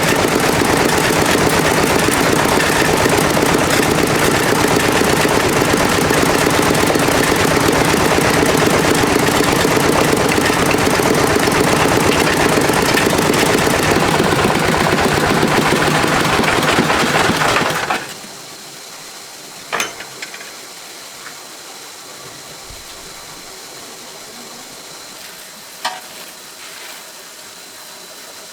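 Farm tractor's diesel engine running loud with a rapid, even chatter of firing strokes, then shut off abruptly about eighteen seconds in. Afterwards only a faint steady background remains, with two sharp clicks.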